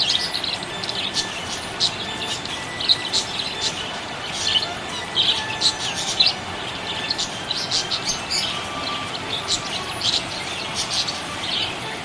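Budgerigars chirping: a continuous stream of short, quick, high chirps.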